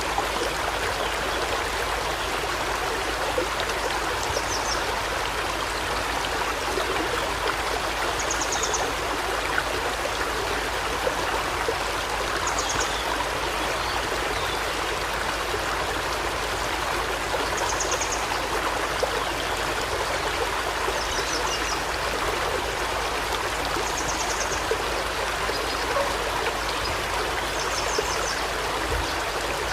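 Forest river flowing steadily. A bird gives a short, high trilled call over it about every four seconds.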